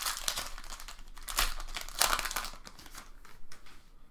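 Foil trading-card pack wrapper crinkling as it is handled and torn, in a few bursts, the loudest about two seconds in.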